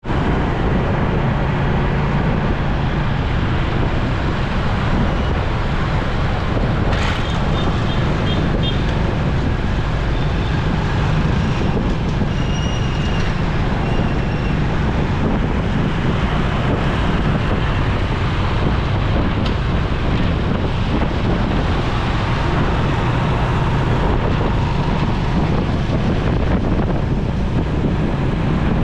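Wind rushing over the microphone and traffic noise from a motorcycle riding through city traffic, steady throughout. A sharp click comes about seven seconds in, and a few brief high beeps sound a little later.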